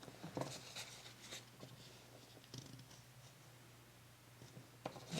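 Faint rustling and handling of paper, with a few soft taps and clicks, over a low steady hum.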